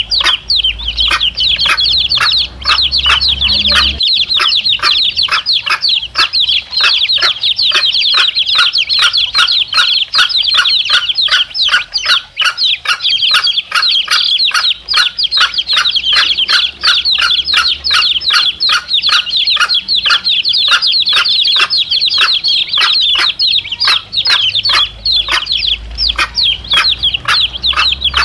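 A brood of domestic chicks peeping continuously in short, high, falling cheeps, about four a second, with the mother hen clucking among them.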